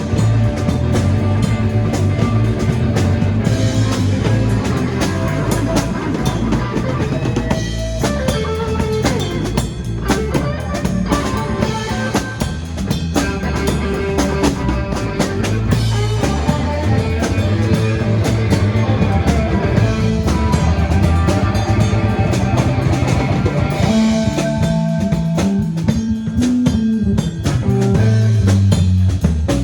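Live rock and roll band playing an instrumental passage: drum kit, electric guitar and bass, with lead guitar lines coming forward a few times.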